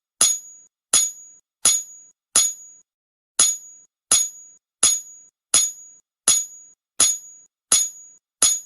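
Hammer blows ringing on an anvil, struck at an even pace of about three every two seconds, each clang followed by a short high ring, with one brief pause about three seconds in.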